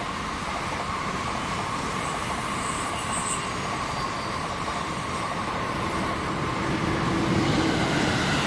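Train running past on the line, a steady noise of wheels on rail.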